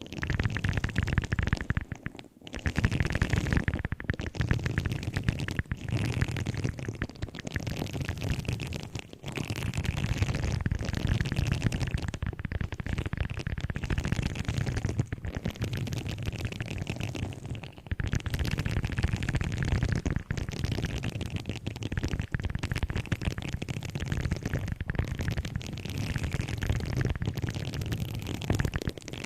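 Continuous close-up crackling and scratching of objects being handled, with a heavy low rumble and a few brief pauses.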